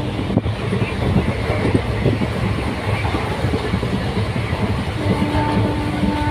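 Running noise of a passenger train heard from inside a coach at an open window: wheels rumbling and clattering over the rails at speed. A steady tone comes in about five seconds in.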